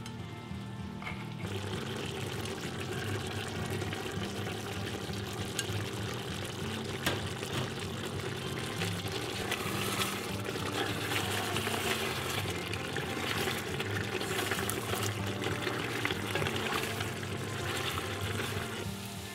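Chicken pieces and garlic sizzling in hot oil in a pot as they are turned with a wooden spatula, a dense crackling hiss that starts about a second and a half in and stops just before the end, over light background music.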